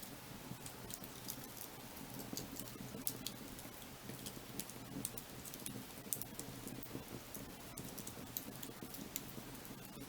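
Wood fire crackling: frequent small sharp snaps and pops at irregular intervals over a low, steady rushing of the burning logs.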